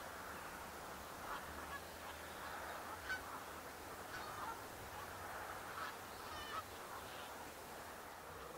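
A flock of geese honking, many short calls overlapping one after another.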